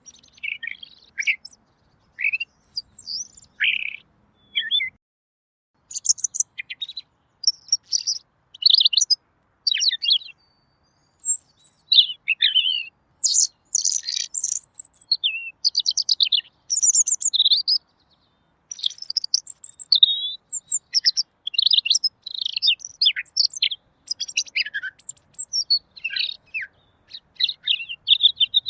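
Pekin robin (red-billed leiothrix) singing: a run of quick, clear, high-pitched warbled phrases and chirps, separated by short pauses.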